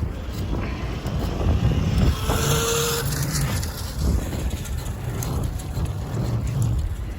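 Wind rumbling on the microphone and road noise while riding a bicycle. A short, steady high squeal lasts under a second, about two and a half seconds in.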